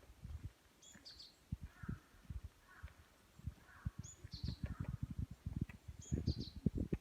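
Footsteps on a soil and gravel path, loudest near the end. A small bird calls three times, about three seconds apart, each call a short note dropping in pitch.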